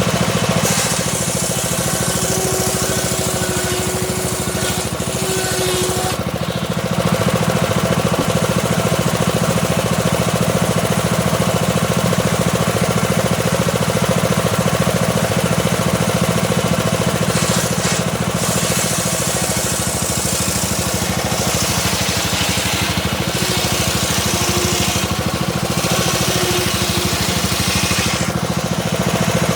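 Homemade circular saw rig running steadily with a low drone. Its blade cuts into a small teak log several times, adding a rising hiss that comes and goes as the log is fed through slowly.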